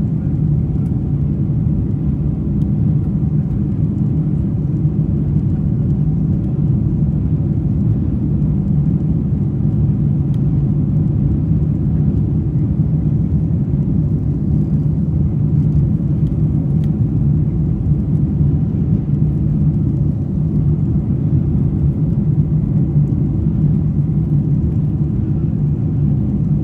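Steady rumble of a Boeing 747-400's Rolls-Royce RB211 engines and airframe heard inside the passenger cabin, holding an even level with a low drone throughout.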